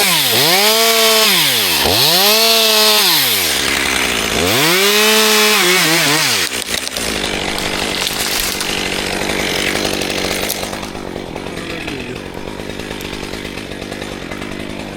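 Chainsaw revving up and back down three times, each rise and fall lasting about two seconds. From about six and a half seconds in, it gives way to a steadier, rougher running noise with no clear pitch.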